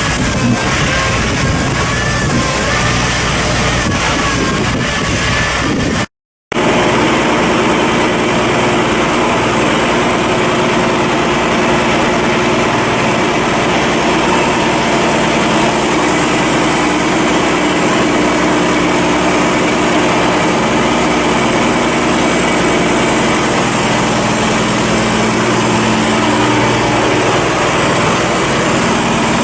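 Ship's engine running loudly and steadily, with a short break in the sound about six seconds in; before the break a wavering whine rides over the engine noise.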